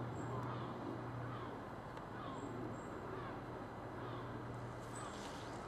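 A bird calling over and over, a short falling note about once a second, over a steady low hum. A few rustles come in near the end.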